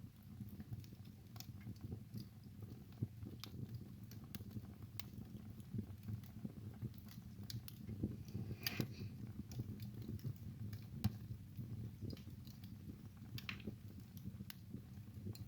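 Wood fire burning in a fireplace: a steady low rumble of the flames with irregular sharp crackles and pops from the burning logs, a louder burst of crackling about halfway through.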